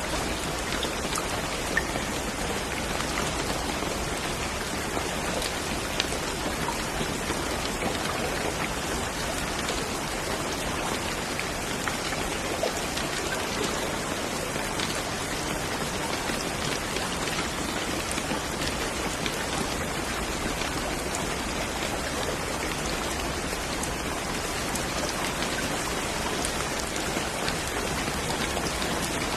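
Steady rain falling, a dense even hiss of drops with faint individual drop ticks scattered through it.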